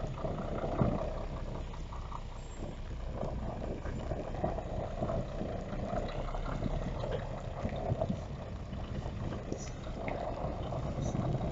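Heavy truck's diesel engine running steadily, with irregular small clicks and rattles over it.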